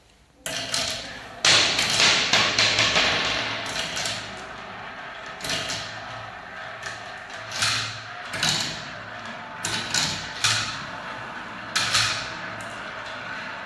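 Balls rolling down a spiral marble-run track: a continuous rolling rattle that gets loud about a second and a half in, with sharp clacks of balls knocking along the track every second or so until near the end.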